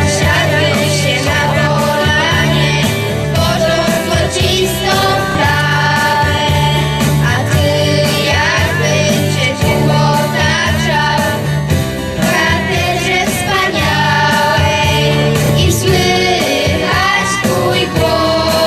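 Children's church choir singing a religious song in unison over an accompaniment with a steady beat.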